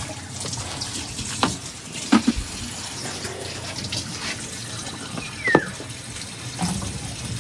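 Water running steadily from a tap into a sink, with a few short knocks and one brief falling squeak.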